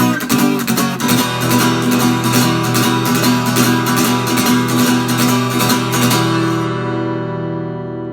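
Washburn EA20 steel-string acoustic-electric guitar strummed in a fast, even rhythm; about six seconds in the strumming stops on a final chord that is left to ring out and fade.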